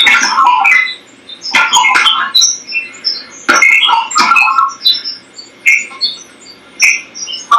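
Clusters of rapid bubbling, chirping electronic blips at many different pitches, mixed with sharp snaps and pops, coming through a TV set's speaker from its satellite receiver. They come in bursts of about a second with short gaps between them and do not repeat a pattern.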